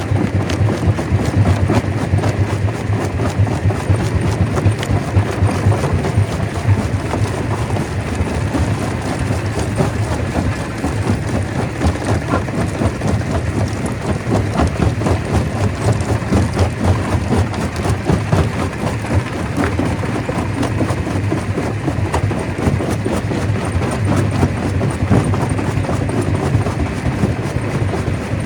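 Rock crusher running, a steady low hum under a dense, irregular clatter and knocking of stones being broken.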